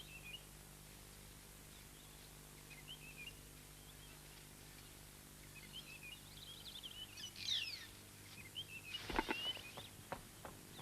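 Faint wild birds chirping in natural outdoor ambience, with one louder falling call past the middle. A thump about nine seconds in, and a softer one a second later.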